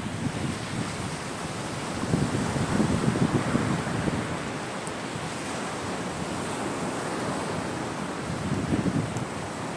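Sea waves breaking on a shore: a steady wash of surf, with a louder wave coming in about two seconds in and another near the end.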